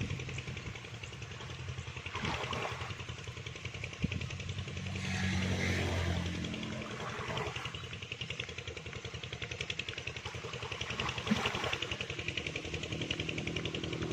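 A small engine running steadily, with a fast, even pulse throughout.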